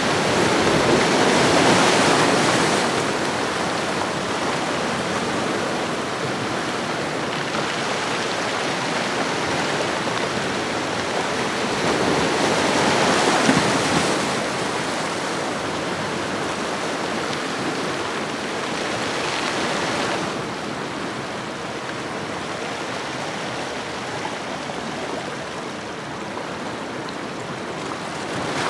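Ocean waves washing onto a shoreline, a steady rushing surf that swells about two seconds in and again around thirteen seconds, then eases off for the last third.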